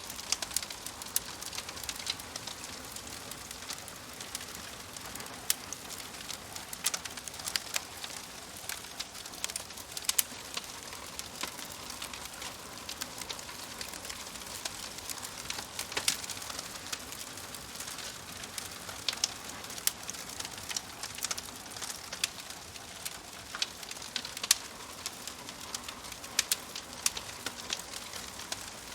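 Wood fire crackling: a steady soft hiss with frequent sharp pops and snaps scattered irregularly throughout.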